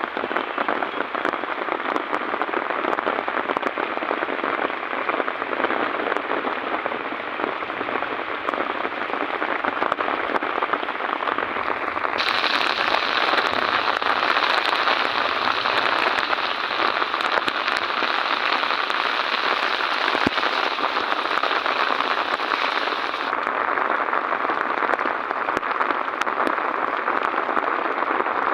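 Heavy rain pouring down steadily, with a stretch in the middle where the downpour grows louder and hissier for about ten seconds before easing back.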